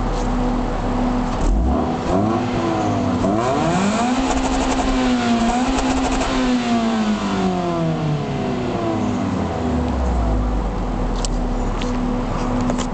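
Toyota Altezza RS200's 2.0-litre 3S-GE four-cylinder on its standard exhaust, idling and then revved: a couple of quick blips about two seconds in, then a longer rev held high from about four to seven seconds in that falls back to idle near nine seconds.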